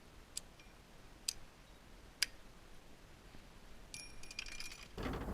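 Three sharp clicks about a second apart, then near the end a brief run of small metal pieces clinking and ringing, as scrap copper and brass fittings are handled.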